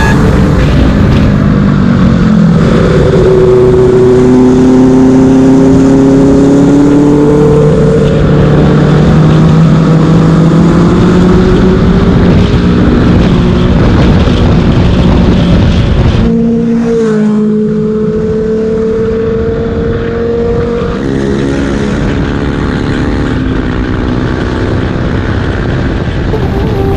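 Benelli 600i's inline-four engine and exhaust under way, the revs climbing slowly and steadily for about a dozen seconds. About sixteen seconds in the revs and loudness drop suddenly, then the engine runs on at steadier revs.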